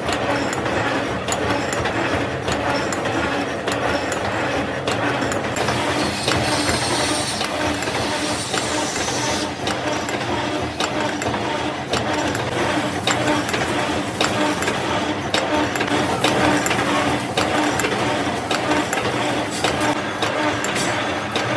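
Workshop machinery running steadily with a constant hum, with frequent metallic clinks and knocks; a high hiss joins for a few seconds near the middle.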